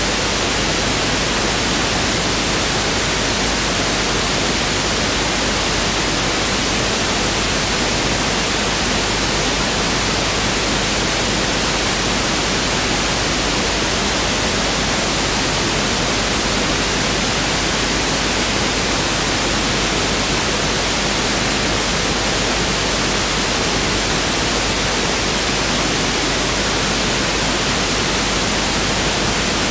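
Pink noise test signal: a steady, unchanging hiss spread evenly over all pitches, with equal energy per octave (1/f).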